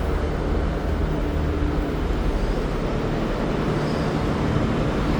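Steady low droning hum of a V/Line regional train standing at the platform, heard inside the carriage, with a faint constant tone and no changes.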